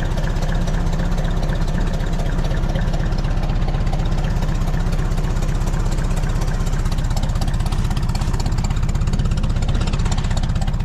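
Tractor engine idling steadily as it warms up after a hard cold start; the hydraulics are still too cold to lift the 3-point hitch.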